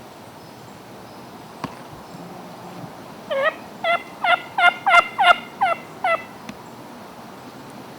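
A series of about eight wild-turkey yelps, short clear notes that each drop in pitch, coming about three a second, growing louder and then tailing off.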